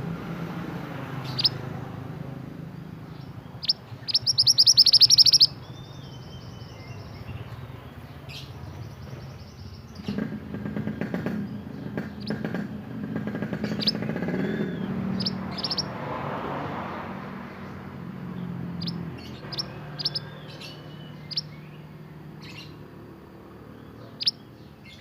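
Male mantenan songbird singing: short, sharp high chirps scattered throughout, with a loud, very rapid trill about four seconds in, over a low background hum.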